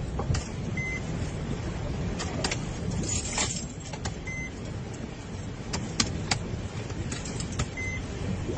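A vehicle running with a steady low rumble, scattered sharp clicks and knocks, and a short high beep three times, about three and a half seconds apart.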